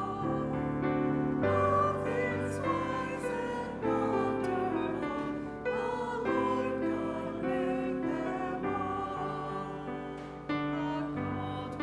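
Hymn singing by a choir or congregation with keyboard accompaniment, held chords changing every second or so.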